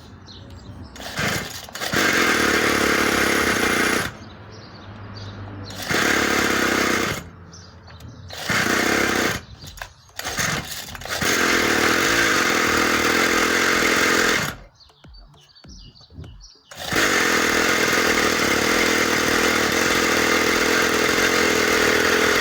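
Small 49cc two-stroke pit-bike engine firing up on a flooded carburettor and running unevenly. It comes in loud bursts of revving, dropping back in between and dying away briefly about two-thirds through before running again, a sign it is not yet running properly, which the owner puts down to fuel issues.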